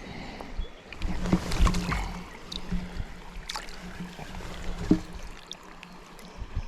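Shallow stream water splashing and sloshing, with several sharp knocks scattered through it.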